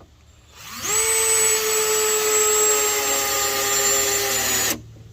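A handheld power tool's electric motor spins up with a rising whine, runs at a steady high pitch for about four seconds, then cuts off suddenly.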